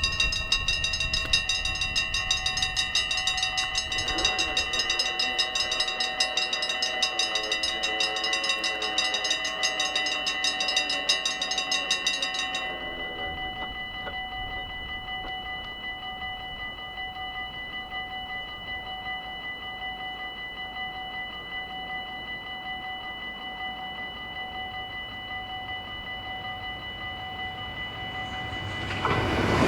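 Level-crossing warning bells ringing in a fast, steady rapid pulse. About 13 seconds in they drop to a much quieter ring, as Dutch crossing bells do once the barriers are down. Between about 4 and 12 seconds a lower hum slowly falls in pitch under the bells, and near the end a rising rush of noise begins as a train approaches.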